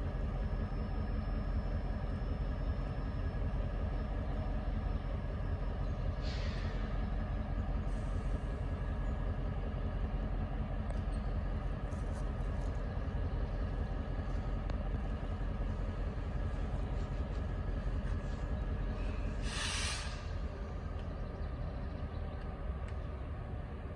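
Diesel switching locomotive, an EMD GP38-3, running with a steady low drone. Two hisses of air, typical of the air brakes, cut in: a short one about six seconds in and a longer, louder one near twenty seconds in. The engine eases off a little after the second hiss.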